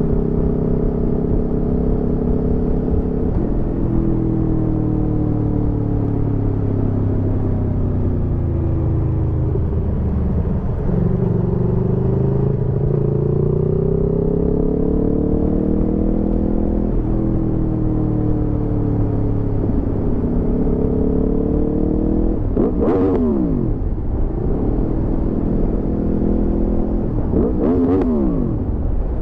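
Aprilia Tuono V4 motorcycle's V4 engine under way, its pitch climbing under throttle and dropping at gear changes, with a long slow rise in the middle. Near the end there are two short, sharp revs up and back down a few seconds apart.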